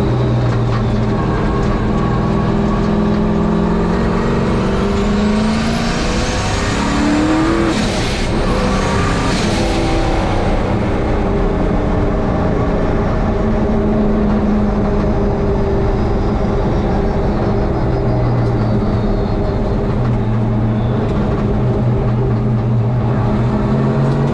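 Turbocharged 5.7-litre LS1 V8 of a 1951 Chevy race truck running hard on track on low boost, its engine note steady and loud. About six to ten seconds in, the pitch drops and climbs again and a high whine rises and falls.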